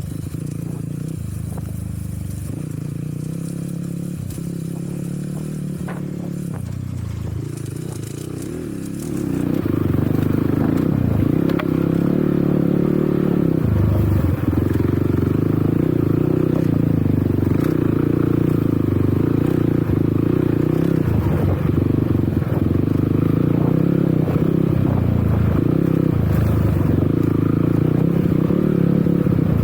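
Enduro motorcycle engine running under way, with some rattling and scraping. It gets much louder about nine seconds in and stays up after that.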